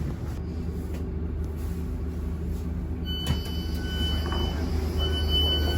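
Class 455 electric train running with a steady low rumble. About halfway through, a high-pitched squeal starts and comes and goes in short stretches.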